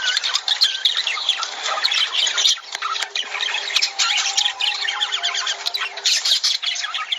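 A flock of lovebirds chattering: a dense, continuous mix of many short, shrill squawks and chirps overlapping one another.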